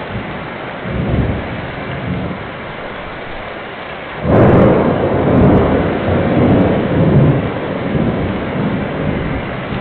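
Thunderstorm: steady heavy rain with low rumbling, then a sudden loud thunderclap about four seconds in that rolls on for several seconds.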